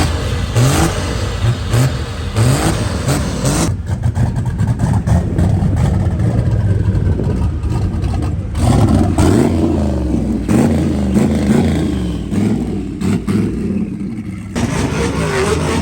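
Truck engines revving: a quick series of short rising revs, then a longer stretch of loud running and revving from several engines, which changes abruptly near the end.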